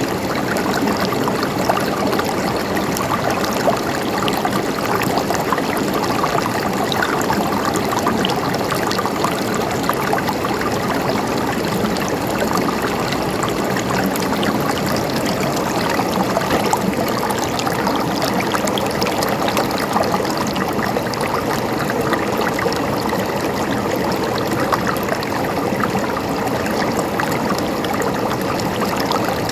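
Mountain stream running over rocks: a steady, even rush of flowing water with fine splashing and gurgling.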